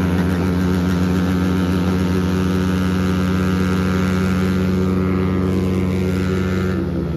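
Motorcycle engine held at steady high revs, its pitch dropping away as the throttle is released near the end.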